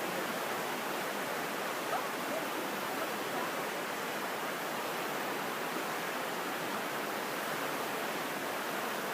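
Mountain stream rushing steadily over rocks, an even wash of water noise.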